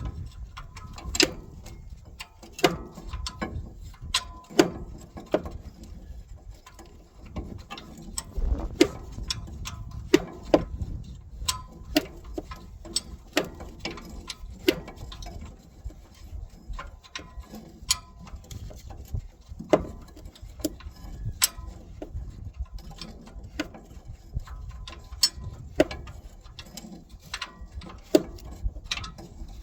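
Hand wrench clinking on bolts and metal as it is set and reset to loosen the engine's mounting bolts: irregular sharp single clicks, roughly one a second, over a low rumble.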